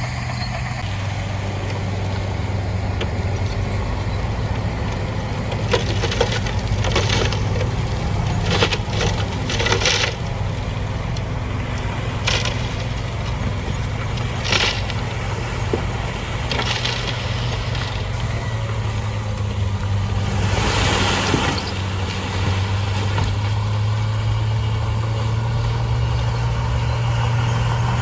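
Heavy diesel earthmoving machine running steadily, with repeated short bursts of rock and gravel grinding and tumbling, the longest near the end.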